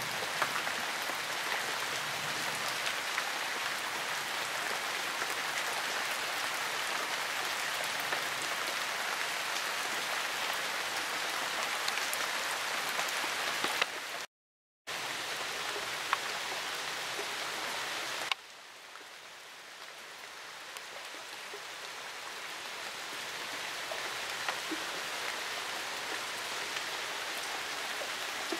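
Steady rain falling, an even hiss with scattered ticks of single drops. It cuts out for about half a second halfway through, and a few seconds later drops to a quieter hiss that slowly grows louder again.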